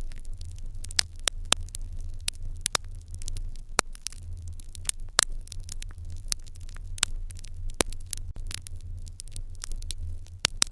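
Fire in an irori hearth crackling, with irregular sharp pops a few times a second over a steady low hum.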